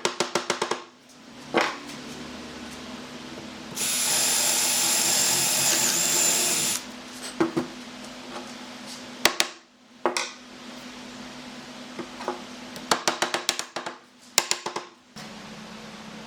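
Power drill running steadily for about three seconds in the middle, with quick runs of sharp clicks near the start and near the end and single knocks in between; a faint steady hum underneath.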